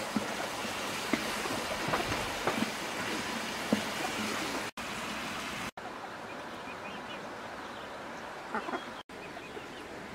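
Fish and greens sizzling in a large metal wok, with a wooden spatula scraping and knocking on the pan as they are stirred. About halfway in the sizzle stops, and faint high chirps of chickens are left.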